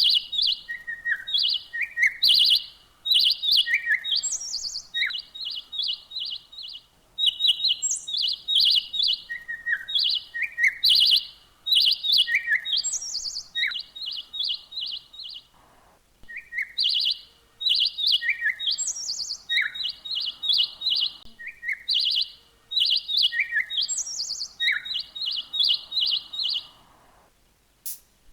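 A songbird chirping in rapid trains of short, high notes, mixed with brief falling whistles, in bursts with short pauses between them.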